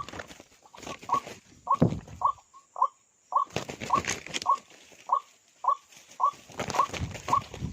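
A bird giving short, repeated calls, about two a second, each dipping slightly in pitch. Bursts of rustling come in between them three times.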